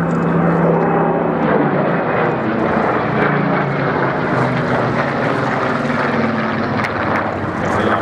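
Supermarine Spitfire flying past, its V12 piston engine and propeller running loud and steady, the engine note shifting about a second and a half in.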